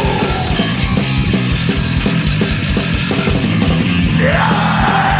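Punk rock band playing live, instrumental with no vocals: distorted electric guitars over fast, driving drums, with a guitar sliding up in pitch about four seconds in.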